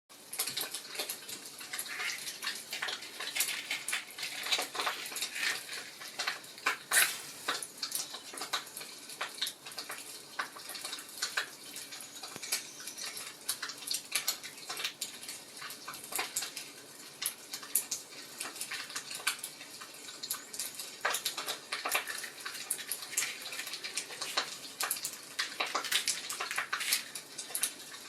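Wood fire crackling in a fireplace: dense, irregular snaps and pops over a soft hiss, with a few louder pops.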